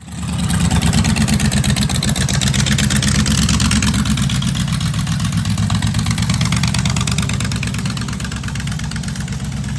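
A vehicle engine running steadily and loudly, with a fast even firing beat; it eases off slightly in the second half.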